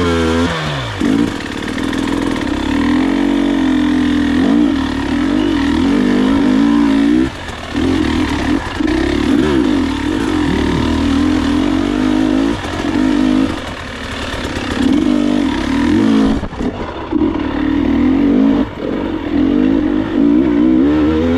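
Enduro motorcycle engine running and revving up and down as the throttle is worked, dropping back briefly several times.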